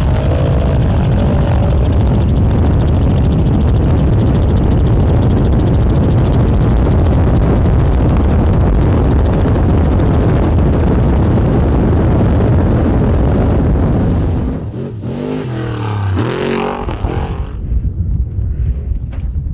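Off-road race truck engine running hard under a loud, steady rush of wind and road noise. About fifteen seconds in the rush drops away and an engine revs, its pitch rising and then falling, before the sound quiets near the end.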